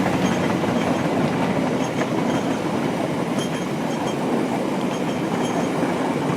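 Steady rumbling vehicle running noise with faint repeated light clicks. It cuts off suddenly at the end.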